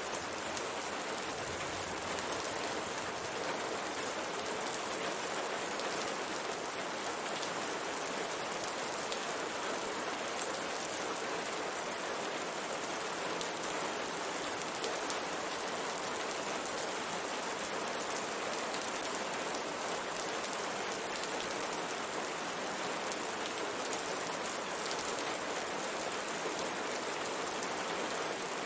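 Steady rain pattering on a window, an even rushing hiss with fine scattered drop taps.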